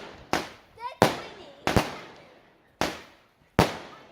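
Fireworks exploding: about five sharp bangs at uneven intervals, each followed by a fading echo.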